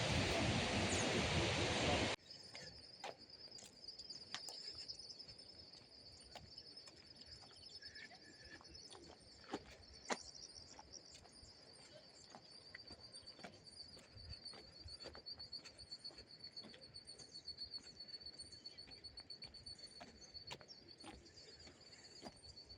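Rushing water from the falls for about two seconds, then an abrupt cut to quiet outdoor ambience: a steady high-pitched trill with scattered clicks and an occasional short bird chirp.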